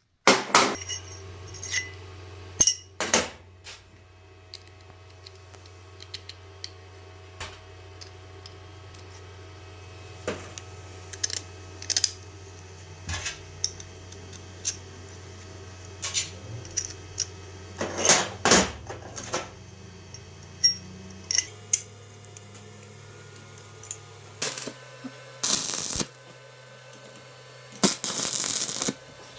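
Metal parts and hand tools clinking, tapping and knocking on a workbench over a steady low hum, with a few short rasping bursts near the end.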